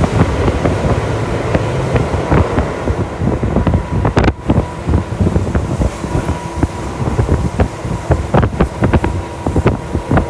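Running sound inside a Tokyu Toyoko Line commuter train under way: a steady low rumble of wheels on rail, with irregular clicks and knocks from the track and a faint steady tone.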